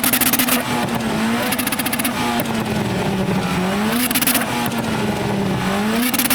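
A Mark VII Ford Fiesta ST's turbocharged four-cylinder, fitted with a screamer pipe, revved hard over and over, its pitch climbing and dropping back about every two seconds. Short bursts of sharp crackle come at several of the rev peaks.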